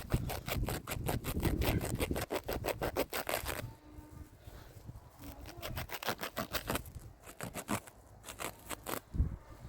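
Rapid, repeated scraping strokes, about six a second, that stop about three and a half seconds in and start again a few seconds later.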